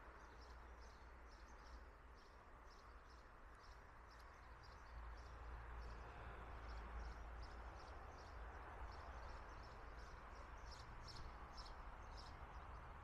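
A small bird chirping over and over, about two to three short chirps a second, over faint steady background noise.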